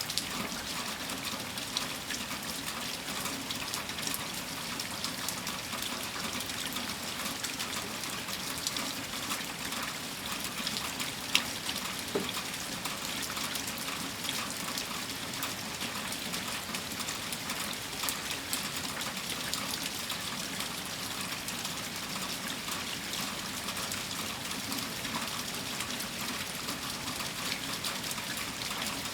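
Heavy rain falling steadily, with water gushing and trickling and many small drops ticking, one sharper drop about eleven seconds in.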